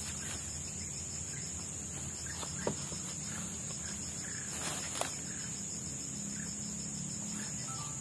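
Steady high-pitched drone of insects, with a couple of faint clicks about a third and two-thirds of the way through.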